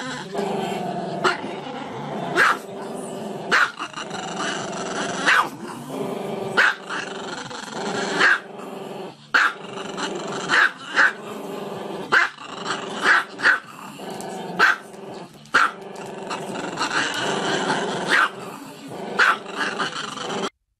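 Small dog giving long drawn-out howling sounds with its head raised, broken every second or two by short sharp barks. The sound cuts off just before the end.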